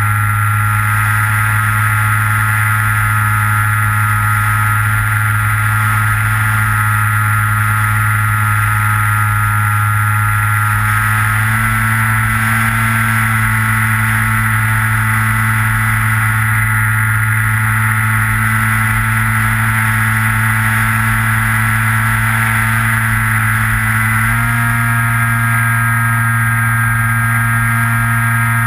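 Electric motor and propeller of a Skywalker FPV model plane, heard through the onboard GoPro, running as a loud steady drone. Its pitch steps up a little about eleven seconds in and again near the end, as the throttle is opened.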